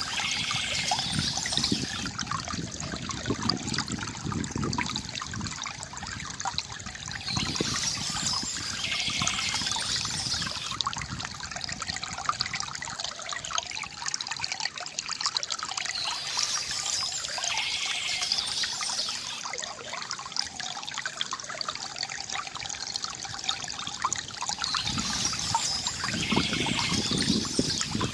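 Water trickling and gurgling from a bamboo fountain, with a brighter, splashier swell coming back about every eight to nine seconds.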